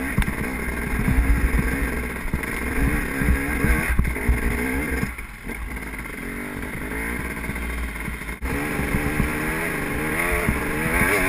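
KTM enduro motorcycle engine revving up and down as it is ridden over rough ground, with short knocks and clatter in the first few seconds. The throttle eases off briefly a little after five seconds in, then the engine picks up again.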